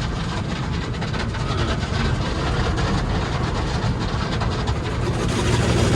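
Automatic car wash heard from inside the car: water jets spraying and pattering on the body and windows, a dense steady hiss over a low rumble of the wash machinery.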